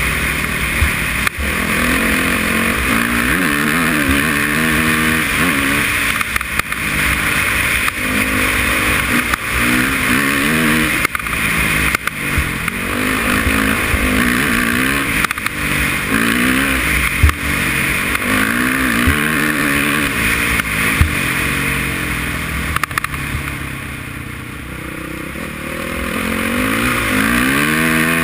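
Honda CRF450R's single-cylinder four-stroke engine pulling through the gears, revs climbing and dropping again and again, over steady wind noise with occasional sharp knocks. Near the end the revs fall away and the engine quietens briefly, then climbs again.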